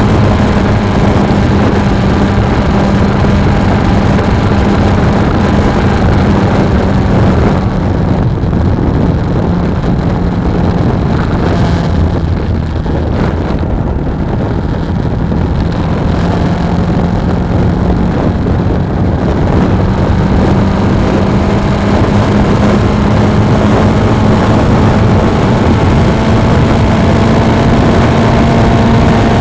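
Suzuki V-Strom 250 parallel-twin motorcycle engine running at steady riding speed, with wind noise over the action camera's microphone. Between about 8 and 19 seconds in, the engine note eases slightly and the wind noise drops, then both build again.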